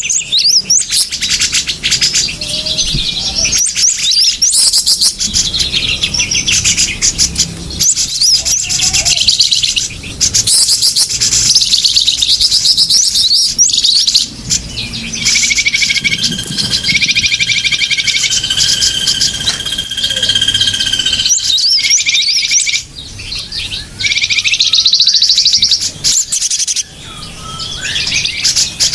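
Small-bird lure call: many small birds chirping and twittering at once in a dense, high-pitched chorus of quick notes and glides. For a few seconds in the middle a steady, held whistle sounds under the chirping.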